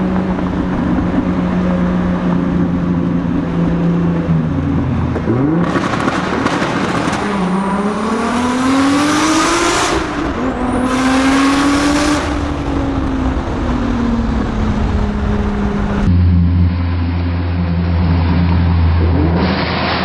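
Car engine pulling hard: its note drops, then climbs steeply, falls sharply at a gear change about ten seconds in, and climbs and eases off again. After an abrupt cut near the end, a steady engine drone.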